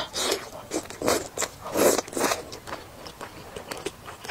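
Close-miked biting and chewing of pieces of cold chicken in chili-oil sauce (pepper-and-sesame saliva chicken). It is loudest in the first two and a half seconds, then fades to softer chewing clicks.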